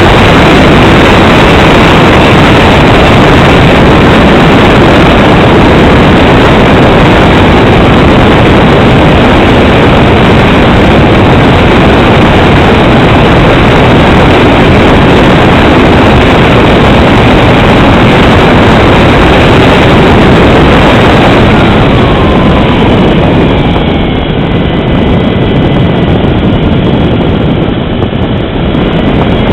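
Loud, steady roar of aircraft engine and rushing air. About 22 seconds in it eases slightly and a few thin falling whines appear.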